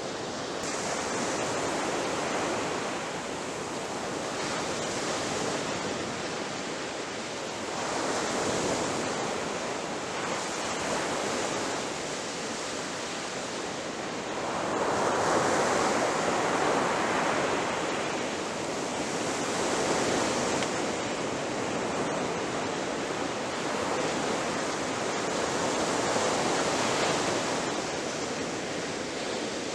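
Ocean waves breaking on the shore: a continuous wash of surf that swells and ebbs every few seconds, with the largest wave about halfway through.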